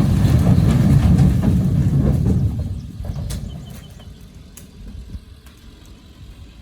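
A vehicle engine running with a loud, low rumble that fades away after about three seconds.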